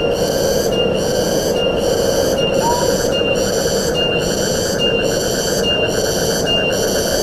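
Forest ambience: wind in the trees as a steady noise, with a shrill high call pulsing a little more than once a second throughout. A short single chirp comes about two and a half seconds in.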